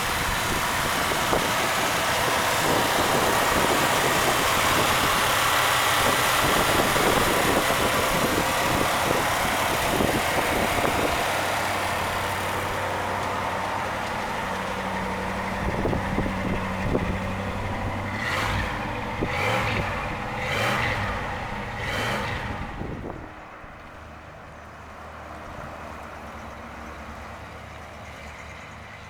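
1964 Cadillac DeVille's 429 cubic-inch V8 running, loud and steady at first, then blipped four times in quick succession before settling to a quieter idle.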